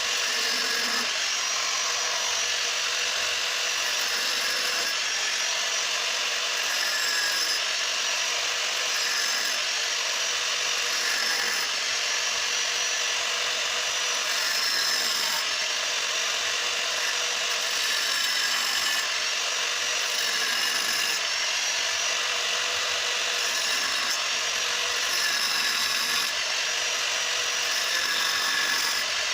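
Angle grinder cutting into a motorcycle's steel stock exhaust muffler, a continuous grinding with a high whine that wavers up and down in pitch as the disc bites the metal.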